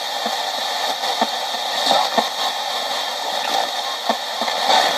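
Spirit box sweeping through radio stations: a steady hiss of static broken by short, chopped blips.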